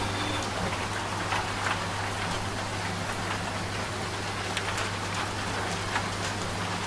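Steady rain with scattered individual drops, over a constant low hum from a running washing machine. A steady tone stops about half a second in.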